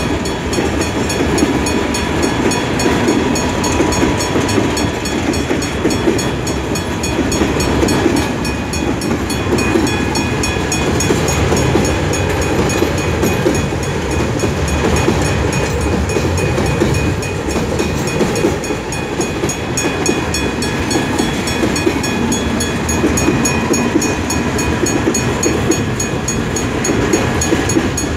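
Freight train rolling steadily past, a continuous rumble of wheels on the rails with faint steady squealing tones.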